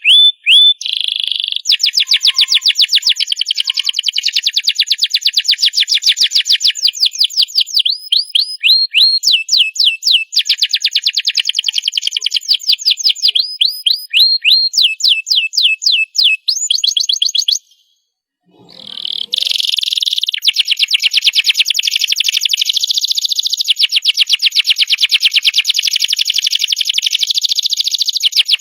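Domestic canary singing: long runs of fast, rapidly repeated high notes and rolling trills. The song breaks off for about a second roughly two-thirds of the way through, then starts again.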